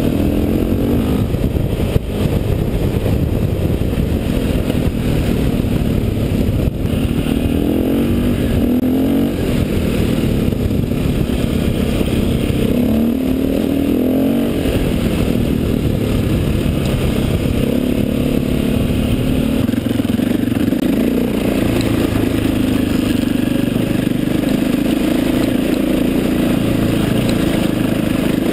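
KTM dirt bike's engine running under throttle on a gravel track, heard from a camera on the bike. The revs rise and fall several times, then hold steadier for the second half.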